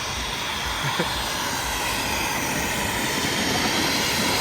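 Steady rushing noise of snowboarding, a snowboard sliding over snow with wind on the microphone, getting slightly louder toward the end.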